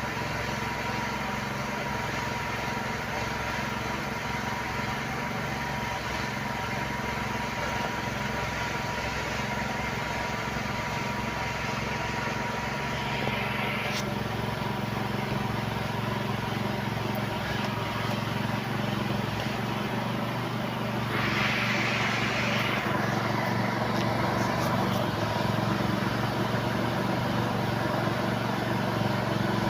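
A 2008 Honda CR-V's engine idling steadily, with its throttle body newly replaced. Brief hissing comes in twice, about halfway through and again about three quarters of the way in.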